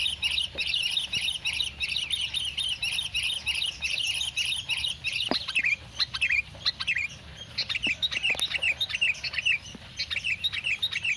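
Sooty-headed bulbul (kutilang) calling in a quick, continuous run of chirps, several a second, thinning out briefly about halfway through before picking up again.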